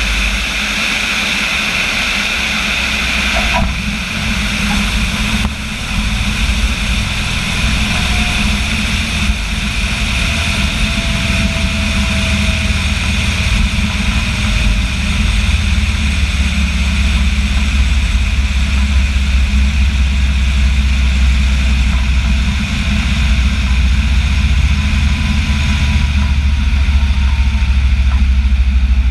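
Light aircraft's piston engine and propeller running steadily, a low drone that slowly grows louder.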